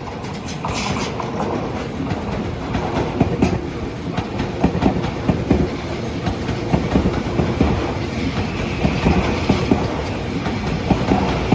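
Tobu Railway train running past, its wheels clattering over the rail joints in a quick, steady rhythm of knocks over a low rumble.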